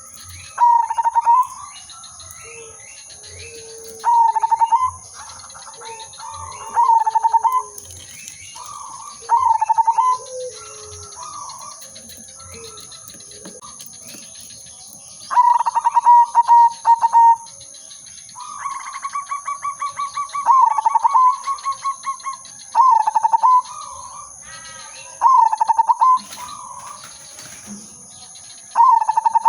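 Zebra dove (perkutut) singing its cooing song: short stuttering phrases repeated every two to three seconds, about nine in all, with one longer rapid rattling run in the middle. Fainter, lower coos sound between the phrases early on.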